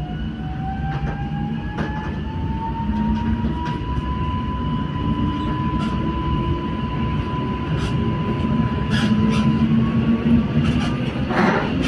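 Electric passenger train running on the rails, a steady low rumble under an electric whine that rises in pitch over the first few seconds and then holds steady, with scattered clicks along the way.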